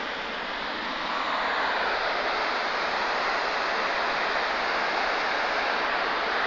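Waterfall: the steady rush of falling water, growing a little louder about a second in.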